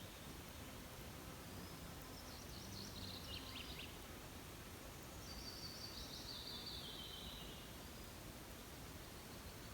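A small songbird singing two phrases that step downward in pitch, a short one about two seconds in and a longer one about five seconds in, over a faint steady outdoor hiss.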